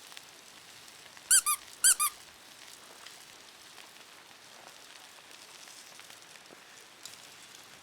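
Two pairs of short, high squeaky chirps, the pairs about half a second apart, over a faint crackle of a wood fire.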